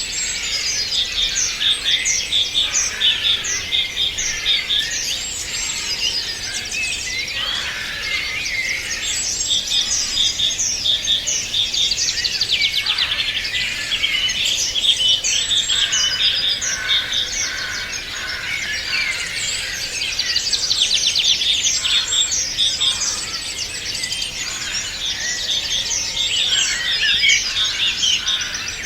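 A chorus of many songbirds singing at once: overlapping chirps and whistles, with bursts of rapid repeated notes.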